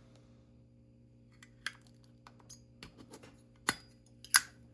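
Zippo lighters being handled: a few sharp metal clicks and taps, sparse at first, with the two loudest about three and three and a half seconds in.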